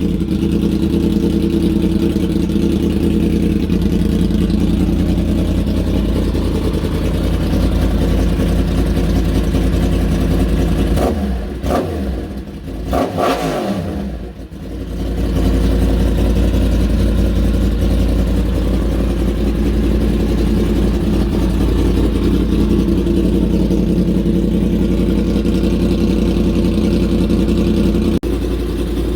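Yamaha MT-10's crossplane inline-four running loud through a full decat pipe with an Austin Racing slip-on: a steady idle, with a few quick throttle blips that sweep up and down about eleven to fifteen seconds in, then settling back to a steady idle.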